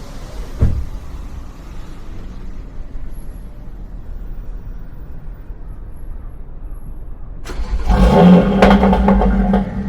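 Audi TT RS five-cylinder engine with a Milltek de-cat exhaust and Stage 2 tune, running with a low rumble, with a single thump under a second in. About seven and a half seconds in it gets much louder, holding a steady drone.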